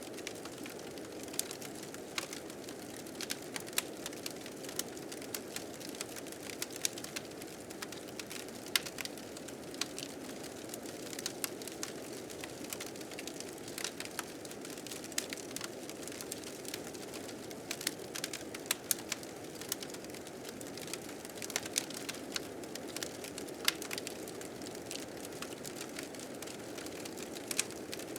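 Fire crackling with irregular sharp pops, over a steady low rush of blizzard wind.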